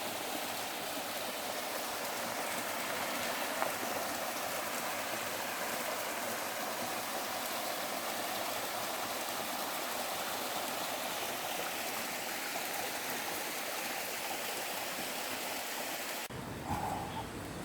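Valley stream water rushing steadily. About a second and a half before the end it cuts abruptly to a quieter, duller background with a few small knocks.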